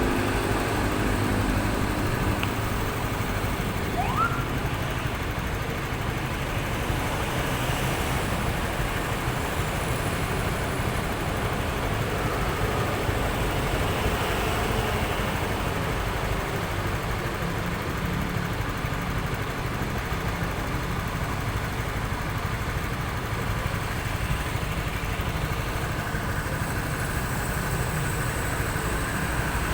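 Steady engine and road noise of a vehicle on the move, with one brief rising whistle about four seconds in.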